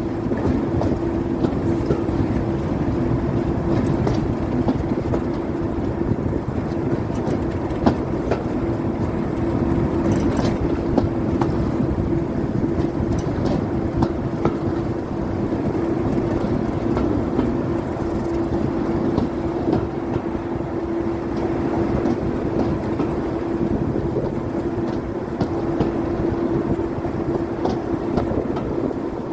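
Diesel train running steadily, a constant engine drone with a steady pitch, over rumbling rail noise with scattered small clicks.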